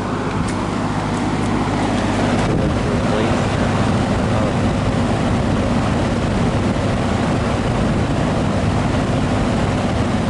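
Vintage GE W12 box fan running in a window: a steady motor hum under the rush of air from its large blades. The low hum turns rougher about two and a half seconds in.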